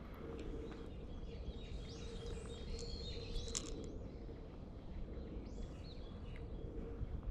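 Wild birds chirping and calling, a cluster of short calls about two seconds in and more a little before the end, over a low steady rumble.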